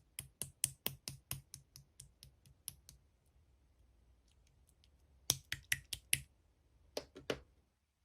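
A quick run of sharp, keyboard-like clicks, about four a second, then a pause with faint ticks and two shorter runs of clicks.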